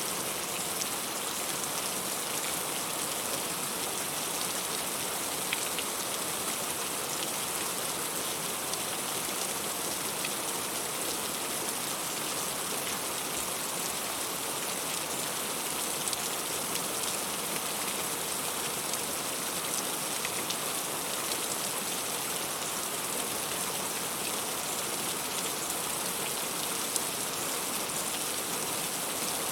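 Heavy rain falling steadily, with a few separate drops standing out now and then.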